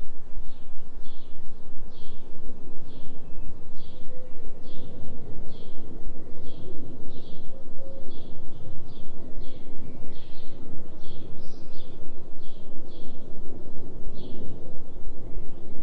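A steady low droning noise whose loudness pulses about three times a second: a 3 Hz delta binaural beat. Over it a bird repeats short high chirps about twice a second.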